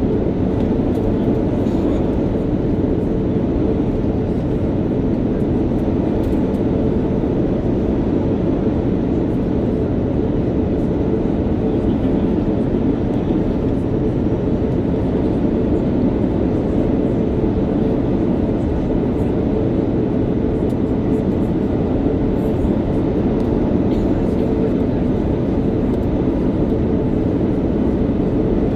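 Steady cabin noise inside an Airbus A330-900neo airliner during descent: a low, even rush of airflow over the fuselage and the drone of its Rolls-Royce Trent 7000 engines.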